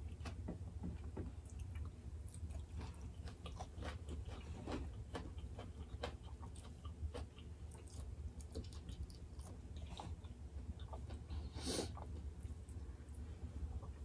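Close-miked eating: soft chewing with many small wet mouth clicks, as duck curry and rice are eaten by hand. A short breathy noise comes about three-quarters of the way through.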